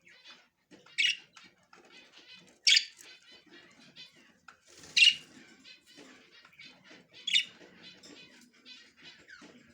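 Budgerigars chirping and chattering, with four loud harsh squawks about two seconds apart.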